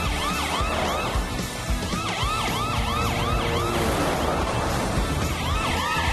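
Cartoon police-cruiser siren wailing in quick rising-and-falling sweeps, about five a second, in three short runs, over background music with a steady beat. It marks the cruiser's emergency lights and siren working again after the broken circuit board was replaced.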